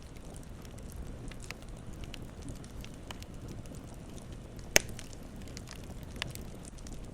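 Campfire burning with a steady low rumble and scattered crackles, with one loud sharp pop near the middle and a smaller one a second and a half later.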